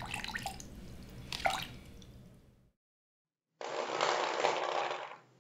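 A brush stirring paint in a plastic mug, with clicks and scrapes against its sides. After a short pause, paint is poured out of the mug in a steady stream for about a second and a half.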